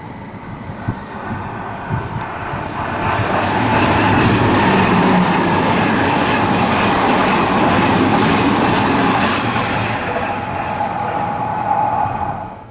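Odakyu 50000 series VSE Romancecar train passing through a station without stopping. The sound builds over the first few seconds, stays loud for about six seconds, then eases and cuts off suddenly at the end.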